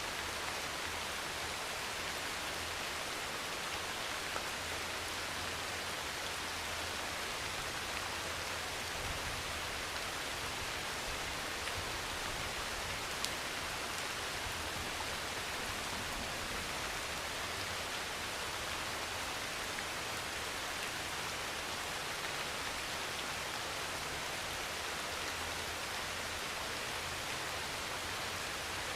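Heavy rain falling steadily on a thin metal roof, a dense even patter with a low rumble swelling and fading beneath it.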